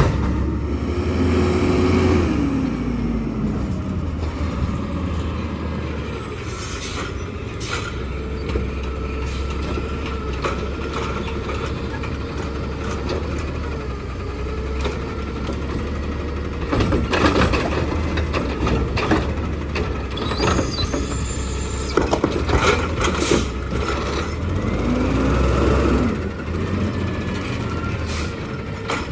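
Garbage truck working its route: the diesel engine runs under a steady whine, with a falling pitch near the start and repeated clanks and bangs from about the middle on.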